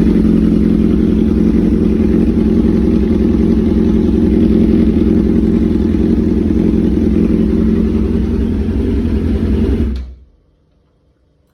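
Yamaha R6 inline-four sport bike engine running loud through an SC Project aftermarket exhaust, holding steady revs; the sound cuts off suddenly near the end.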